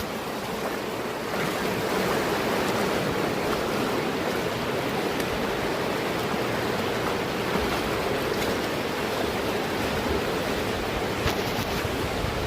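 Steady, even rush of flowing water from a mountain stream.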